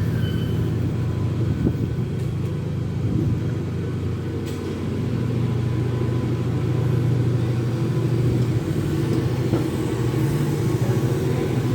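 Class 68 diesel-electric locomotive's Caterpillar V16 engine running under power as its train pulls out, a steady low drone that grows louder in the second half.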